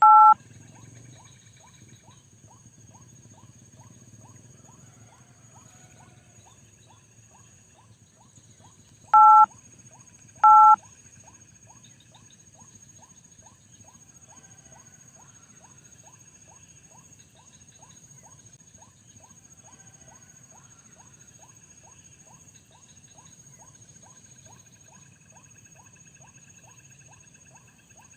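Three short, loud two-tone electronic beeps like phone keypad tones: one at the start and two close together about nine and ten seconds in. Under them runs a steady, fast ticking of about two or three ticks a second and a thin high whine throughout.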